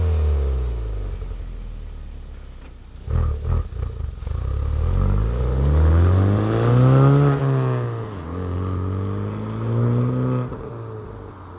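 Honda Civic Type R FK8's turbocharged 2.0-litre four-cylinder through a Remus valved cat-back exhaust: the engine note falls away, gives a few short sharp bursts about three seconds in, then climbs steadily in pitch, drops back, and holds a lower note before fading near the end.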